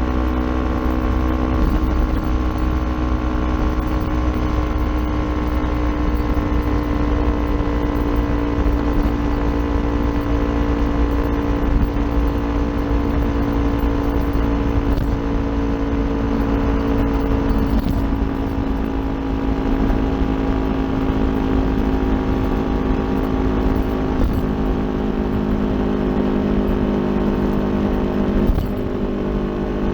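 Kawasaki Ninja 400's parallel-twin engine through an Akrapovic aftermarket exhaust, running on the move at steady revs. The pitch sags slowly for the first half, then shifts suddenly about 18 seconds in and dips again near the end.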